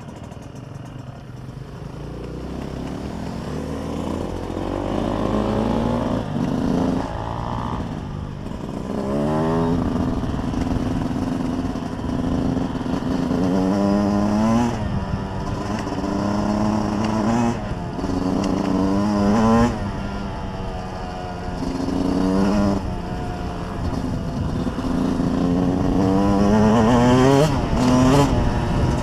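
Dirt bike engine accelerating through the gears: its pitch climbs, drops at each shift and climbs again, over and over, getting louder.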